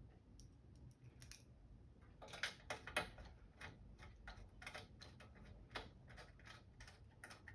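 Faint, irregular clicking of a small hand tool turning the hexagonal connector bolts back into a monitor's rear panel, a few clicks a second starting about two seconds in.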